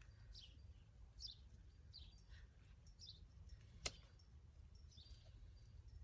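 Near silence with a faint bird chirping, short falling chirps about once a second, over a low steady rumble. One sharp click a little past the middle.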